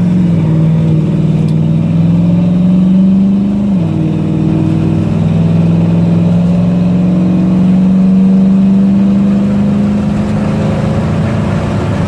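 1963 Chevy C-10 pickup's rebuilt engine, breathing through headers and a 3-inch exhaust with no tailpipes, pulling hard under full acceleration. Its pitch climbs steadily, drops once about four seconds in as the Turbo 350 automatic upshifts, then climbs again.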